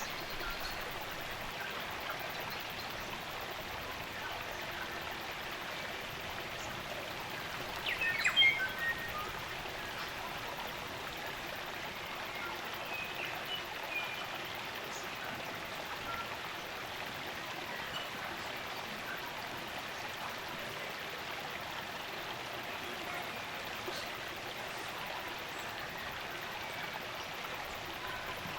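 Spring-fed stream running steadily, with New Zealand native songbirds calling over it. One bird gives a loud quick burst of notes about eight seconds in, and faint scattered chirps come and go.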